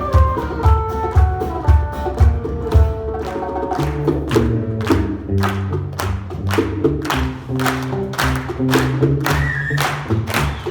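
Live acoustic band playing an instrumental passage of a soul song. For the first few seconds a descending melodic run plays over a pulsing low drum, then a bass line comes in with a steady percussion beat.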